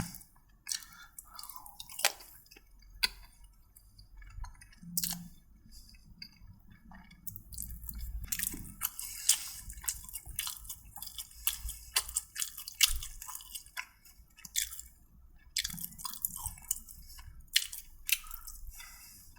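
A person chewing and eating food close to the microphone, with irregular short mouth clicks and smacks.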